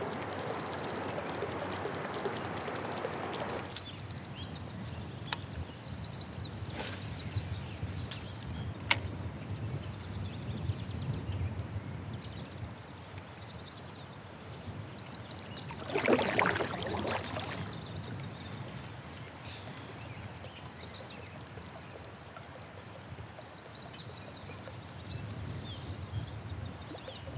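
A songbird sings repeatedly in the background, each song a quick run of high falling notes, every few seconds. A rushing noise fills the first few seconds, and a louder swish comes about sixteen seconds in.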